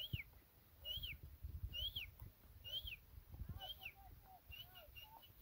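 A bird repeating a short high whistled call that rises and falls, about once a second. Near the end the calls break into shorter chirps. An uneven low rumble runs underneath.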